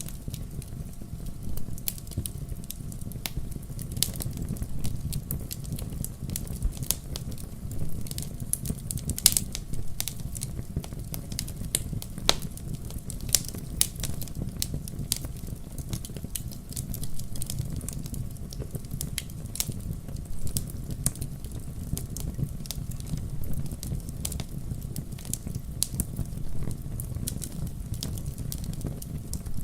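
Fireplace fire crackling, with irregular sharp pops over a steady low rumble of the flames; one of the louder pops comes about nine seconds in.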